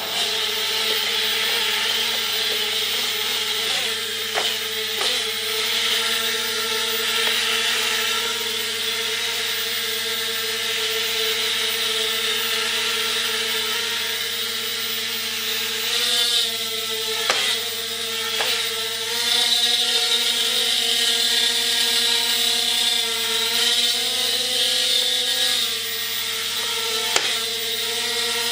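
Tiny toy quadcopter's four propeller motors whining steadily while it flies, the pitch shifting as it is steered forward, back and sideways, with a few sharp clicks.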